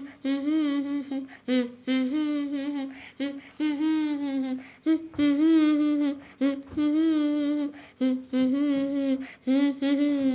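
A child's voice humming a melody without words or accompaniment: a string of held notes with a wavering vibrato.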